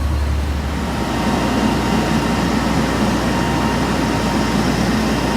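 Garbage truck's diesel engine running steadily, with a low hum that changes about a second in.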